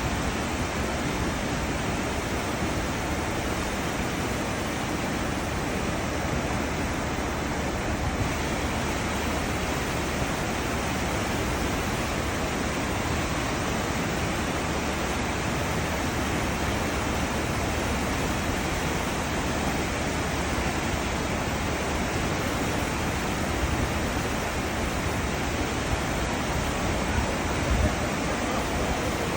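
Cruise ship's wake: a steady rush of churned-up sea water.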